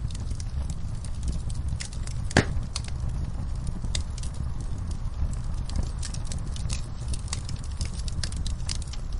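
Wood fire crackling in a fireplace: frequent sharp pops over a low steady rumble, with one louder pop about two and a half seconds in.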